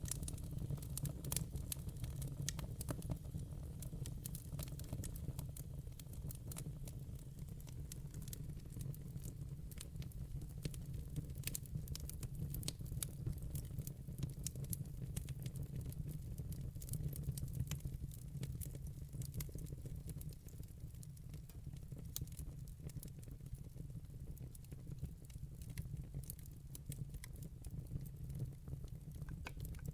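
Wood fire in a fireplace crackling: a dense, irregular run of small sharp pops and snaps over a steady low rumble of the burning fire.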